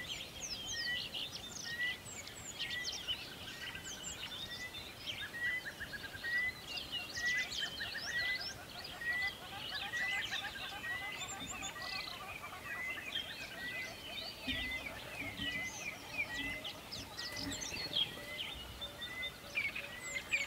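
Many birds chirping and twittering together, with one bird repeating a short note about once a second.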